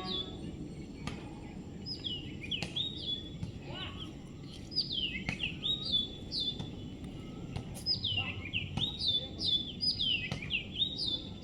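A small songbird chirping: quick, high, down-slurred notes given in runs, busier in the second half, over a steady low background hum.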